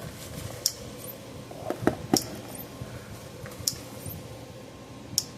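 Power Wizard PW5000XD electric fence charger pulsing on the bench: a sharp click about every one and a half seconds as it fires its output pulse, showing the unit is cycling. A few duller handling knocks come about two seconds in.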